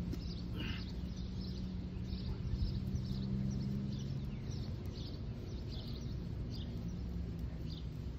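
Small birds chirping again and again in the trees, over a steady low hum and a low rumble.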